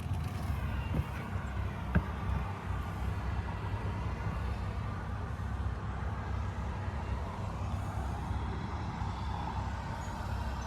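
John Deere 5095M tractor's diesel engine running steadily with a low rumble, with a sharp click about two seconds in.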